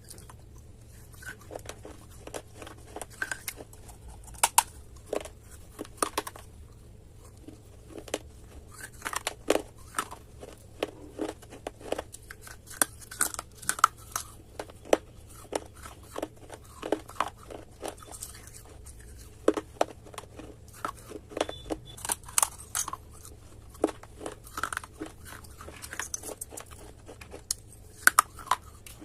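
Dry clay being crunched: many sharp, irregular crunches and crackles, coming in clusters, over a faint steady low hum.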